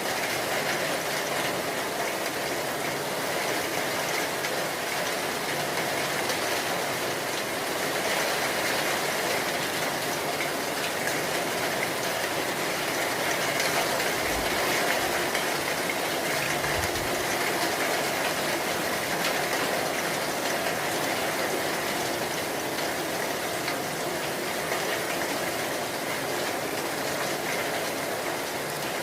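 Heavy rain falling steadily, an even dense hiss. Two brief low thumps come about halfway through.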